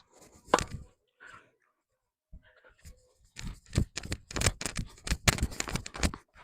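Knocks and taps of a ball game in play: ball strikes and quick footsteps. There are a couple of sharp hits in the first second, then a fast run of knocks, several a second, over the last three seconds.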